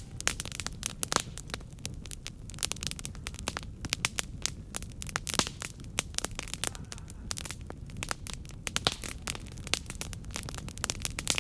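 Wood fire crackling: frequent sharp, irregular pops and snaps over a low steady rumble of the burning.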